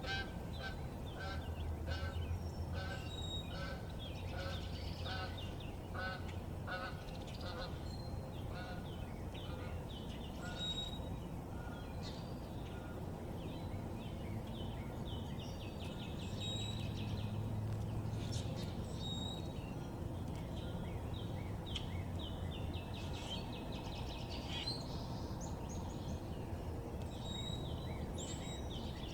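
A goose honking in a steady series of about two calls a second, fading out about eight seconds in. Small songbirds chirp throughout over a low background rumble.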